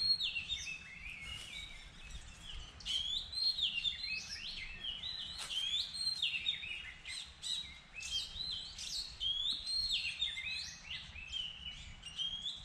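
Birds chirping: runs of short, sharp high notes that slide quickly in pitch, repeating about once a second.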